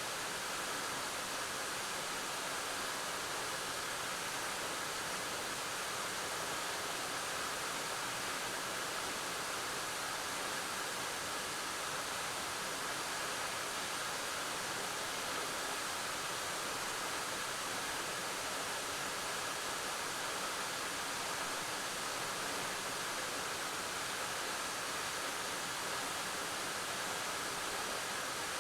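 Waterfall splashing: a steady, even rush of falling water.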